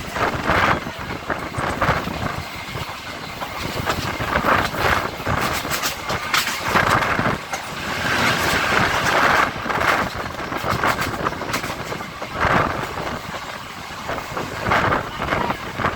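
Electric multiple unit (EMU) local train running, heard from on board: steady rumble of the moving coaches with an irregular clatter of wheels over rail joints.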